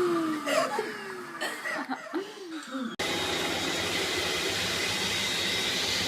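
Laughter and gliding voices for about three seconds, then an abrupt cut to a vacuum cleaner running steadily with a constant hum and whine.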